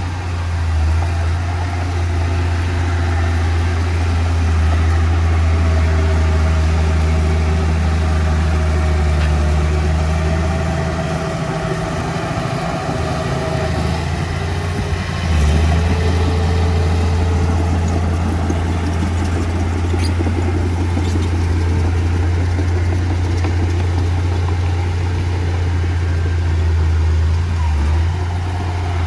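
Diesel engine of heavy earthmoving machinery running steadily, easing off about eleven seconds in and picking up again sharply a few seconds later.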